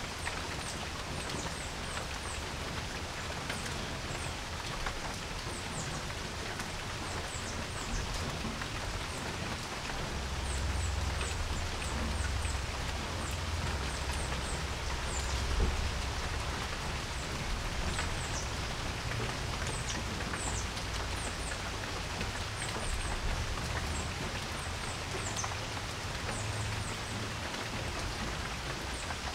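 Steady rain falling on a porch, with short, high chirps sounding again and again, and a low rumble swelling up about ten seconds in before settling.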